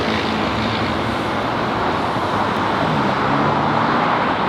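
Steady noise of road traffic, cars going by, with an engine note dipping and rising in pitch about three seconds in.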